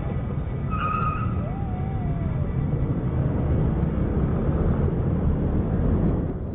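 Steady low rumble of a car driving, engine and tyre noise as picked up by a dash-cam, with a short beep about a second in.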